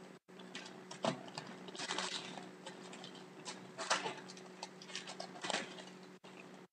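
Hockey trading cards being unwrapped and handled: irregular light rustling and small clicks, over a steady low electrical hum.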